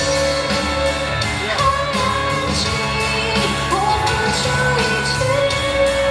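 Female vocalist singing a pop ballad live over a full band with steady drum beats.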